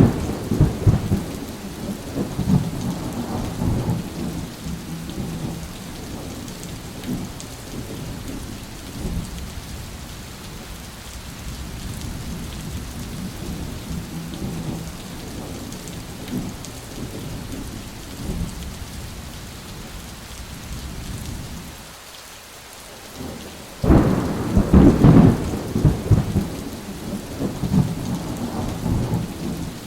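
Thunderstorm: steady rain with rolling thunder. A rumble fades over the first few seconds, and a sharp, loud thunderclap breaks about 24 seconds in, then rumbles away.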